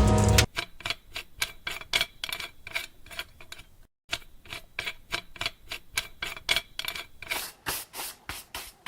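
Rapid light ticking, about four short clicks a second, after music cuts off half a second in, with a brief dead gap near the middle.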